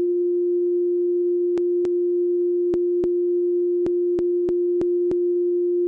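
Amazon Alexa's synthetic voice holding one steady electronic tone, like a pure sine beep, with faint clicks scattered through it; the tone cuts off suddenly near the end.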